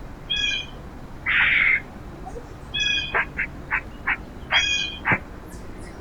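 Backyard feeder birds calling: three short nasal, honking calls, a harsh rasping call about a second and a half in, and a run of quick, sharp downward chips in the second half.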